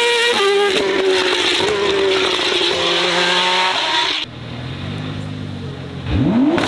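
A racing car's engine at high revs, its pitch stepping and sliding down as it passes. About four seconds in the sound cuts off suddenly to a quieter, lower engine running, which revs up sharply near the end.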